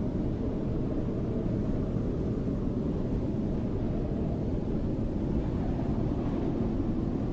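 Steady snowstorm wind: a low, even rush of noise, heaviest in the bass, with no distinct gusts or other events.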